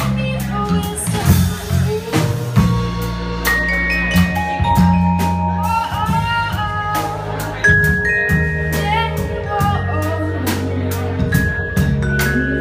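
A live band playing an instrumental passage: drum kit keeping a steady beat under bass and held melodic notes.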